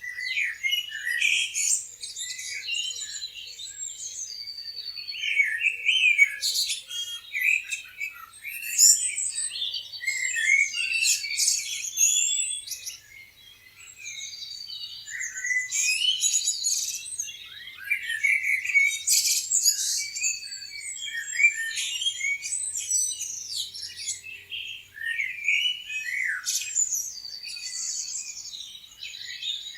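A chorus of many small songbirds chirping and twittering over each other in quick, high, overlapping calls, easing off briefly about halfway through.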